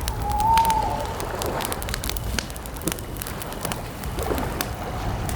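Wood campfire crackling with scattered pops over a low rumble. A bird gives a short rising-and-falling call about half a second in and a fainter one around four seconds in.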